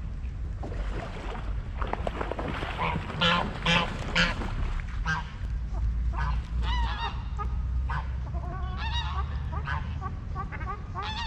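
Geese honking: a few loud calls about three to four seconds in, then many quicker overlapping honks, over a steady low rumble.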